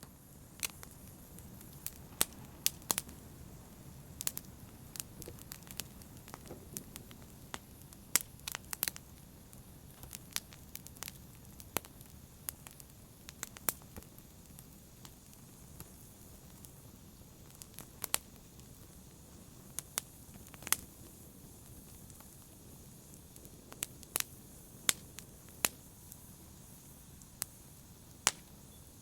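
Wood fire crackling in a fireplace: irregular sharp pops and snaps, some much louder than others, over a low steady rumble of the flames.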